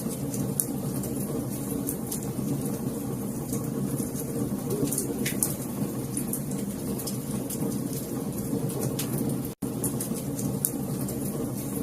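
Wood fire crackling in a fireplace: a steady low rush of flames with frequent sharp pops and snaps. The sound cuts out for an instant about nine and a half seconds in.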